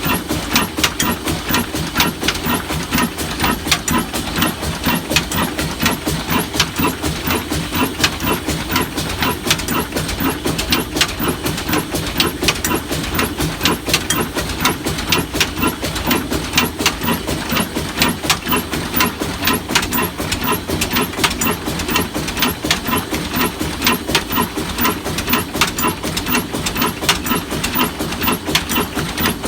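Old black stationary diesel engine running steadily, its exhaust knocking at a quick, even beat with no change in speed.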